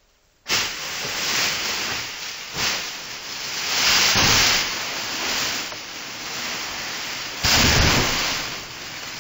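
A loud, rushing, hiss-like noise without pitch, like static or heavy rain. It starts suddenly about half a second in and swells three times, strongest around the middle and near the end.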